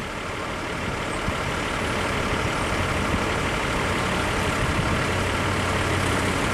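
Heavy trucks crawling past in slow traffic: a steady road and engine rumble that grows slowly, with a low truck-engine hum coming in about five seconds in.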